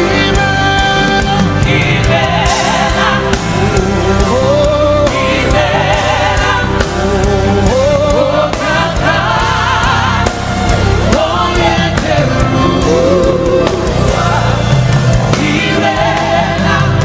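Live gospel worship music: singing, with the voice wavering and sliding in pitch, over a steady, full band accompaniment.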